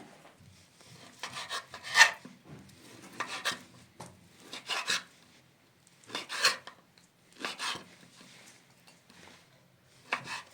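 A series of rasping scraping strokes, about six, roughly one every second and a half, with a longer pause before the last.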